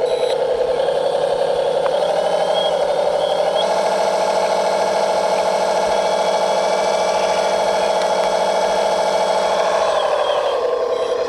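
Radio-controlled construction model running, a steady motor hum that rises in pitch about three and a half seconds in and drops back near the end.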